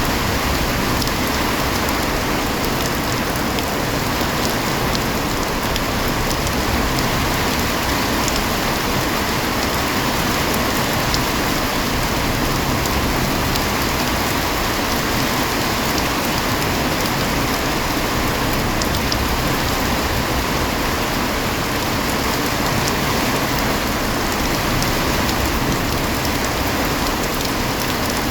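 Heavy rain falling steadily, a dense even hiss of rain on surfaces with scattered drop ticks.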